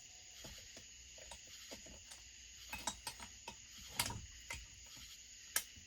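Faint, scattered clicks and light taps of hand tools and small parts being handled while a chainsaw is taken apart, the sharpest about four seconds in and again near the end.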